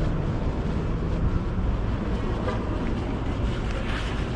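Steady city street traffic noise, a low rumble of vehicles passing, with some wind on the microphone.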